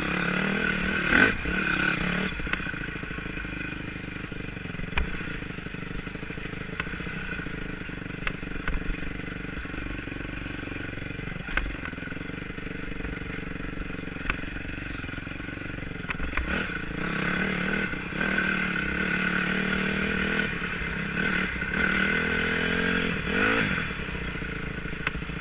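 Enduro motorcycle engine, a Honda 250, running on a dirt trail, its revs rising and falling as the throttle is worked, with scattered knocks and clatter.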